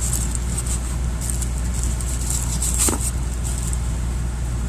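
Steady low hum, with light rustling twice and a single sharp tap about three seconds in as the tire pressure monitor kit's parts and packaging are handled.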